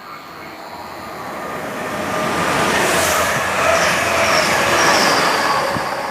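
A train passing close by on the rails, getting louder to a peak about three to five seconds in and then fading, with high whining and squealing tones from the wheels over the rumble.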